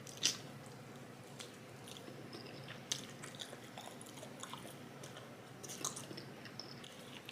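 Close-up chewing and eating sounds of a person eating fried rice, with soft wet mouth noises and scattered small clicks and smacks; a sharper click comes about a quarter second in.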